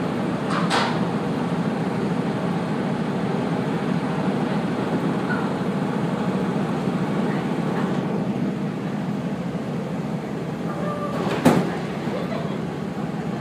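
Steady running rumble of a train, heard from inside the passenger car, with a sharp knock about a second in and a louder one near the end.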